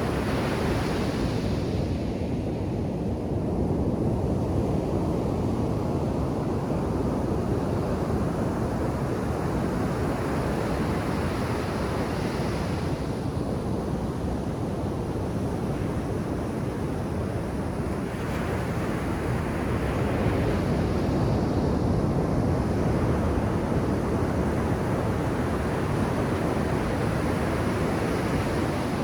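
Ocean surf breaking on a beach: a steady wash of waves, with the hiss of a breaking wave swelling up every few seconds, and some wind on the microphone.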